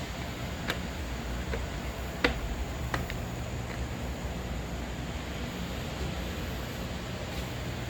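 Forest ambience: a steady low rumble with insects buzzing faintly. Four short sharp knocks come in the first three seconds, the loudest just over two seconds in.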